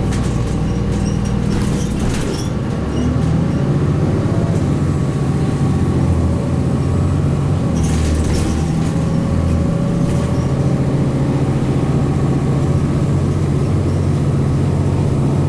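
Cummins ISC inline-six diesel of a 2002 Blue Bird CS transit bus running steadily, getting louder about three seconds in. Two brief bursts of high-pitched noise come over it.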